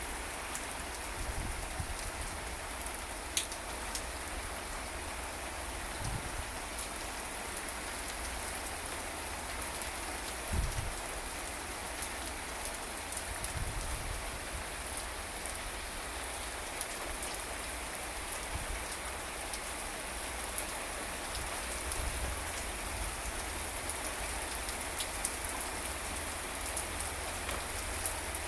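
Steady rain falling and spattering on surfaces, with scattered sharp drop ticks and a few brief low thumps.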